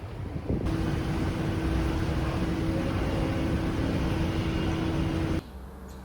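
Steady vehicle running noise with a constant hum in it. It starts abruptly under a second in and cuts off sharply near the end.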